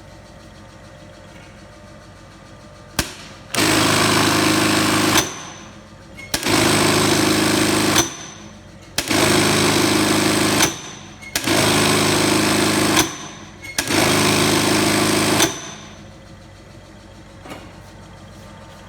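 Reece S2-ISBH industrial buttonhole sewing machine running in five loud bursts of about a second and a half each, separated by short pauses, with a click as each cycle starts and stops. A low steady motor hum continues between the bursts.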